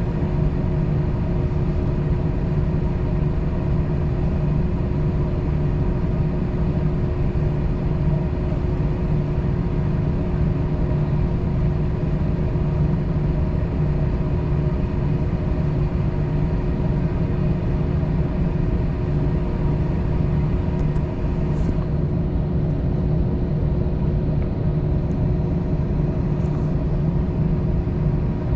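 Steady cabin drone of an Airbus A321 with its engines at idle, a low rumble with a constant hum and whine laid over it and no spool-up. A couple of faint light ticks come in the second half.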